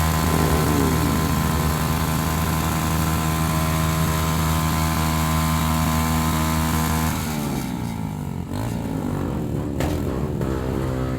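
Motorcycle engines running at a steady idle. About seven seconds in, the steady note breaks off and several engine notes glide up and down as the bikes rev.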